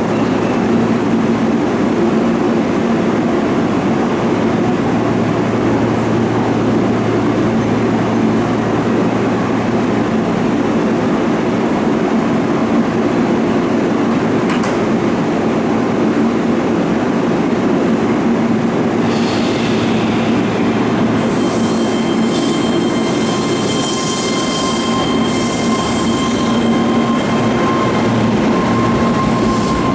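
Keihan electric train running loud and steady at a station platform, with high-pitched wheel squeal joining in about two-thirds of the way through.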